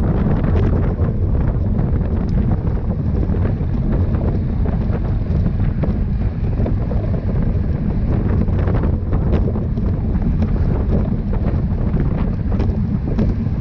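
Wind rushing and buffeting over a camera microphone at riding speed, a steady loud low rumble, with a few faint ticks through it.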